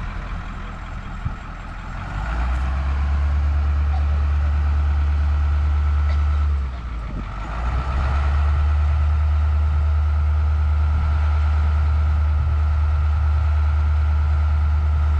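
Heavy diesel engine running hard with a deep steady drone and a whine above it. It eases off briefly about seven seconds in, then picks back up.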